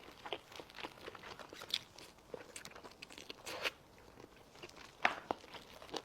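Close-miked eating: biting into and chewing spicy braised chicken, a dense run of short clicks and smacks at an uneven pace, the loudest about five seconds in.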